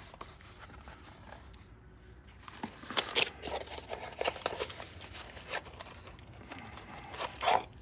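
Irregular rustling and light clicks as a new engine piston and its parts are handled and unpacked, starting a couple of seconds in.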